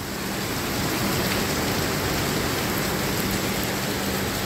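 Heavy rain pouring down: a steady, even hiss of a downpour.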